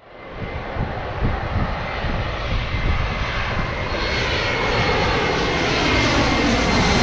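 Jet airliner's engines running close by, a dense roar with a steady high whine, fading in and growing steadily louder as the aircraft approaches.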